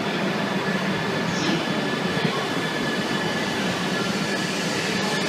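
Shinkansen train moving alongside the platform: a steady rumble with a thin, steady high tone over it.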